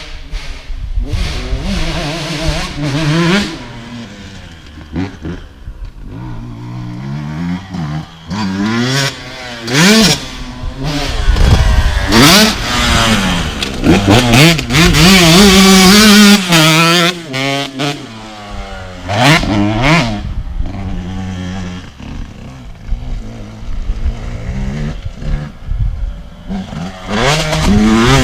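KTM SX 125 two-stroke motocross engine revving hard and falling back over and over as the bike is ridden, the pitch climbing and dropping many times, with its highest, loudest stretch about halfway through.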